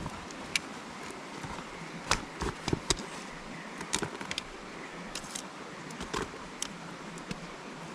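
Irregular light clicks and knocks of camp gear being handled and packed away, a few sharper ones about two to three seconds in, over a steady background hiss.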